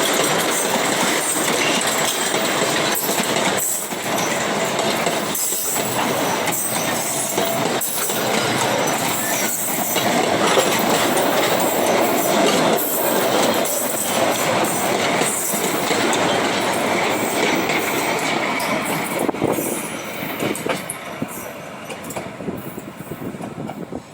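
Freight train wagons rolling past, wheels clacking steadily over rail joints with a thin metallic squeal from the wheels. The sound fades away over the last few seconds as the end of the train passes.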